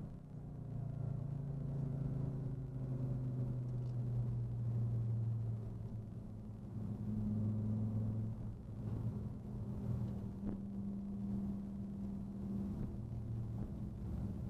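Audi Quattro rally car's engine running steadily as the car drives along, heard from inside the cabin. The note shifts about seven seconds in.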